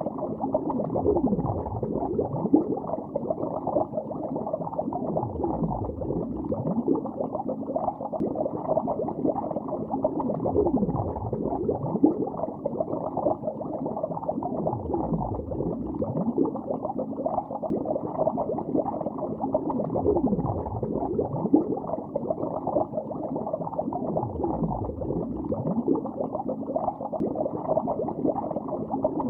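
Bubbling heard underwater: a continuous dense stream of bubbles, dull and muffled with nothing in the treble, with a deep falling swoosh about every five seconds.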